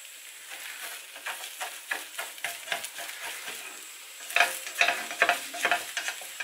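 Slotted spatula scraping and tapping around the edge of a frying pan, tucking in the edges of a potato-and-egg Spanish omelette, over a faint sizzle of the omelette frying on low heat. The scrapes come thicker and louder in the second half.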